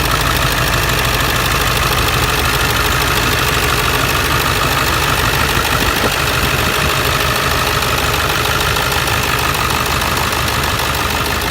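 Lifted pickup truck's engine idling steadily.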